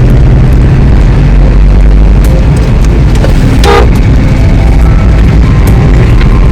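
Vehicle on the move along a winding hill road: a loud, steady low rumble.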